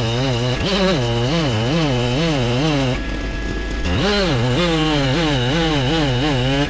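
Chainsaw engine running hard, its pitch wavering up and down about two to three times a second as the load changes. It eases off briefly near the middle, then picks up again.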